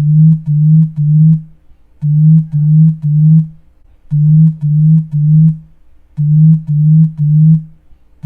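Low vibration buzz in sets of three short buzzes, about one set every two seconds, four sets in all.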